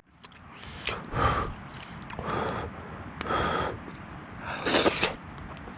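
A person eating hot hotpot, making four short breathy puffs about a second apart as they blow on and take in the hot food, the last one the loudest.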